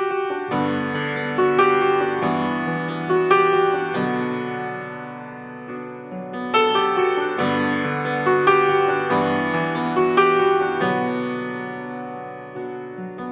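Background music: a solo piano intro of struck chords and melody notes that ring and fade, a new strike about every second.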